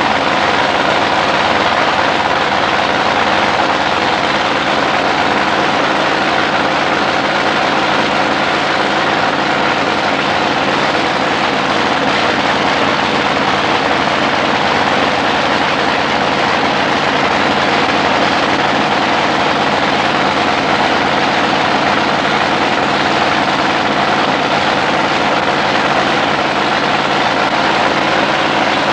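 Alcohol-burning drag boat engine running steadily through its warm-up, a loud, even drone with no revving.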